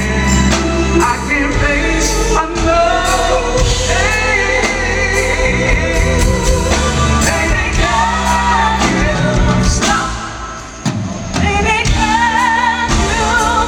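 Live R&B ballad: a full band with drums and bass under a singer holding long, wavering notes in wordless ad-libs.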